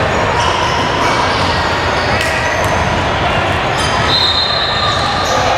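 A basketball bouncing on a gym court during a game, over a steady din of voices, with a few short high-pitched tones and a higher tone held for about a second some four seconds in.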